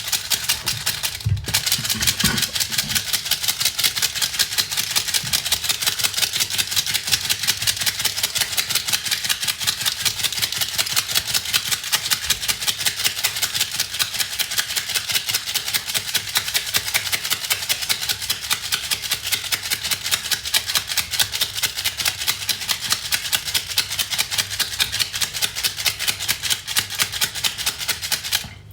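Quick, even rhythmic strokes in a bowl, about five a second, as food is beaten for breakfast; they stop suddenly near the end.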